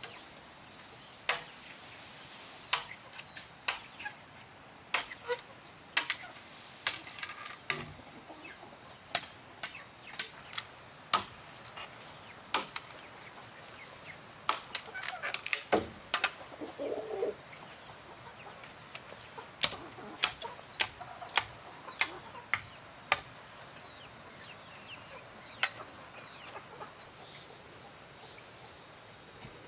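Chickens clucking and chirping, with short falling chirps in the second half, among irregular sharp knocks about one every second or two that come thick and fast about halfway through.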